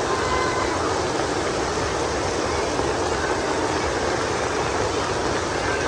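Heavy rain pouring down: a steady, loud rushing hiss with a low rumble underneath.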